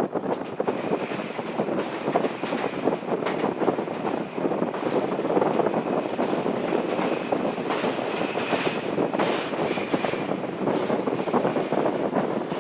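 Former JNR-type electric train running along the track: a steady rumble of wheels on rails, with a faint high tone creeping in about eight seconds in.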